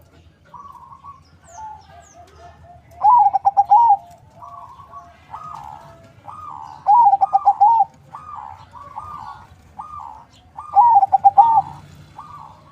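Zebra dove (perkutut), a local × Bangkok cross, cooing. There are three loud stuttering coo phrases about four seconds apart, with fainter coo phrases between them.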